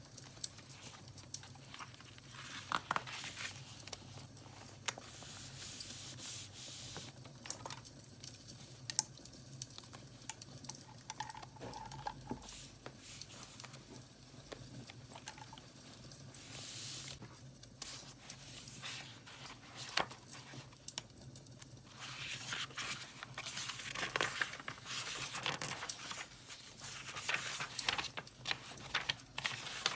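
Paper being handled for journaling: rustling, crinkling and tearing in irregular bursts with small clicks and taps, growing busier in the last third.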